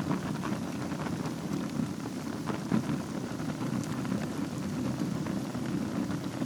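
Wood fire burning in a fireplace over a bed of embers: a steady low rumble of flames with scattered crackles, and one louder pop a little under three seconds in.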